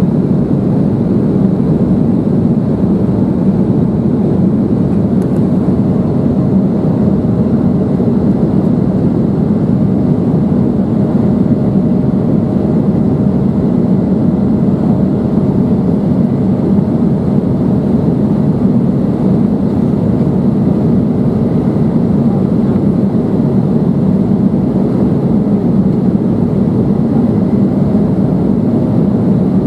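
Steady cabin noise inside an Embraer 175 airliner in flight, its two GE CF34 turbofan engines and the airflow making an even, loud rumble with a faint steady hum above it, typical of the climb after takeoff.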